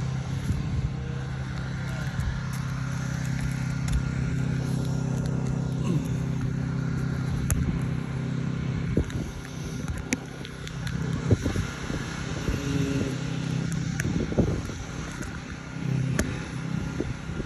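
A steady low mechanical hum, with scattered clicks and knocks over it.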